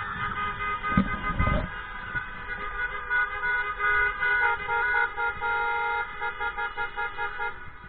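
Many car horns honking at once, several held notes overlapping, some breaking into short repeated toots in the second half, with two low thuds about a second in.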